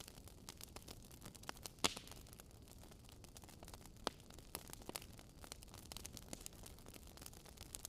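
Wood fire crackling faintly: irregular sharp pops and snaps over a low steady hiss, with the loudest pops about two seconds in and about four seconds in.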